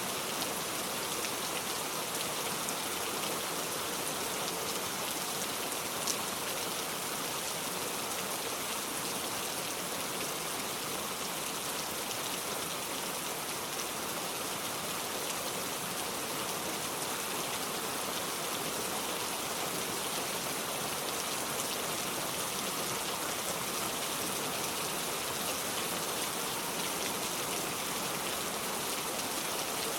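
Steady rain falling, an even hiss with no change, and one sharp tick about six seconds in.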